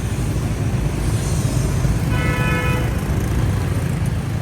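Steady rumble of street traffic, with a vehicle horn tooting once for about half a second, about two seconds in.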